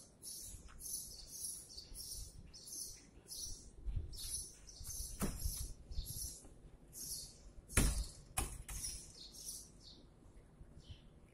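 A bird chirping over and over in a fast, even rhythm, about two or three high chirps a second, with a few sharp knocks in between, the loudest about eight seconds in.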